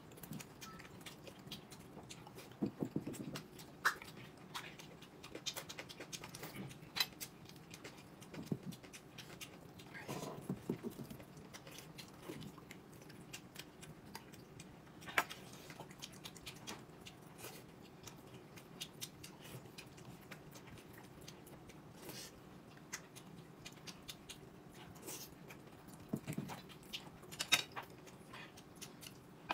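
Quiet eating sounds: chewing and biting, with scattered small clicks and knocks at irregular intervals over a faint steady hum.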